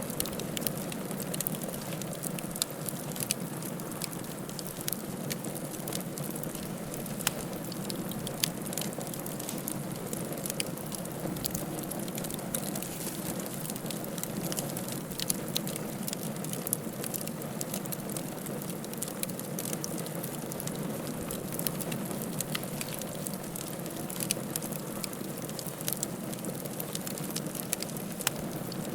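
Wood fire crackling in a fireplace: irregular sharp snaps and pops over a steady low rush of burning.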